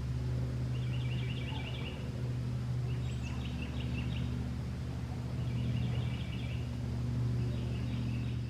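A steady low hum, with a bird repeating a short, rapid trill of high chirps about every two and a half seconds, four times.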